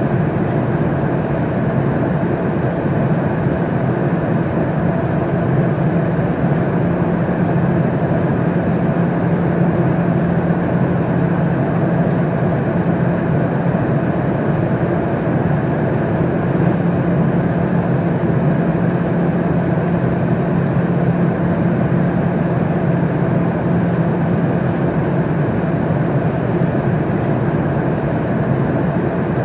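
Airliner cabin noise in flight: a steady, deep rushing drone of air and engines with a low hum underneath, unchanging throughout.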